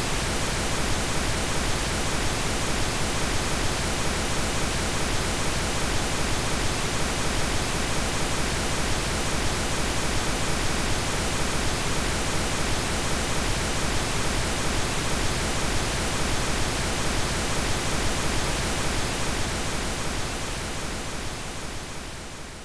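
Generated pink noise: a steady, even hiss with no tones or events, fading out over the last couple of seconds.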